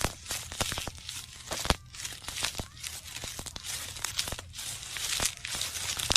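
Plastic bags crinkling and crackling as they are handled: a dense run of small crackles and snaps, with one sharper snap a little under two seconds in.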